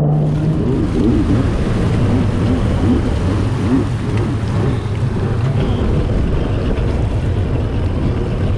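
Jet ski engine running on the water, its pitch wavering up and down with the throttle over a steady noise of water and air.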